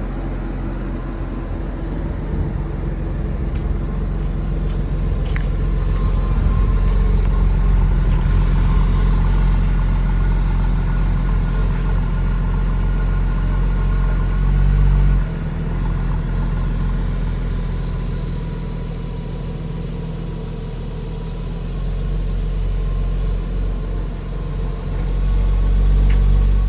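A 2000 Porsche 911 Carrera 4's water-cooled flat-six idling steadily at an even pitch, with no revving. It grows louder, drops off abruptly about halfway through, and swells again near the end.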